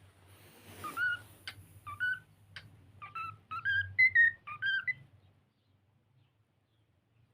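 Cockatiel whistling a short run of rising and falling notes for about four seconds, the last notes the loudest.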